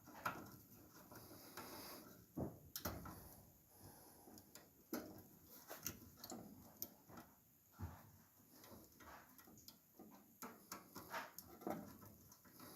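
Faint, scattered clicks and light knocks, irregular and spaced from a fraction of a second to a second or two apart, like small handling noises.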